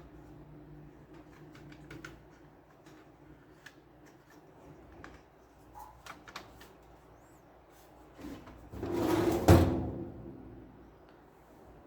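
Scattered small plastic clicks and taps of parts being handled, then about two seconds of louder scraping that ends in a sharp knock about nine and a half seconds in.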